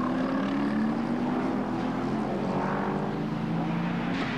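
Racing car engine running at high revs on the circuit, a steady droning note that rises slightly and then holds.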